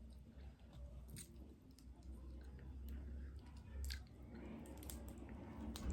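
A person chewing crab, faint and close to the microphone, with a few sharp clicks.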